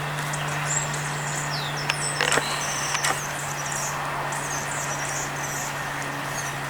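Small birds chirping and twittering in short high calls over a steady rush of street traffic, with a low steady hum underneath.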